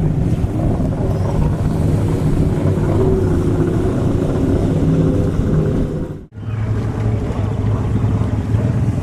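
Boat engine running with a steady drone; an abrupt break about six seconds in gives way to a steadier, lower engine hum.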